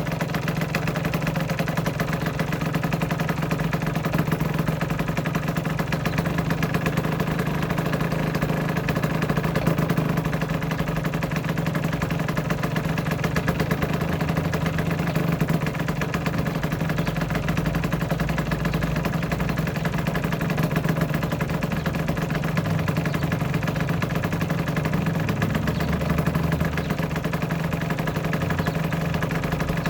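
Aprilia RS125's single-cylinder two-stroke engine idling steadily, with no revving.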